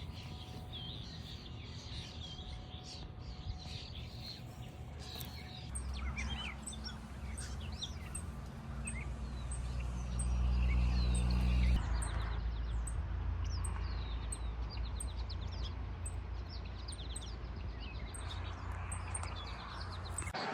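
Several small birds chirping and trilling, with a high note repeating evenly in the second half. A low rumble runs underneath.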